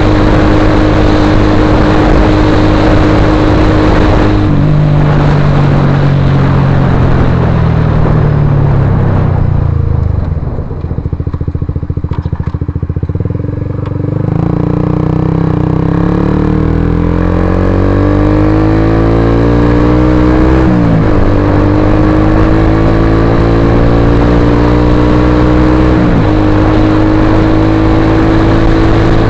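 Suzuki GSX-R150's single-cylinder engine running through an aftermarket Akrapovic-style carbon slip-on silencer. It holds a steady note, falls in pitch and quietens off the throttle, then climbs in pitch again with two sudden drops a few seconds apart.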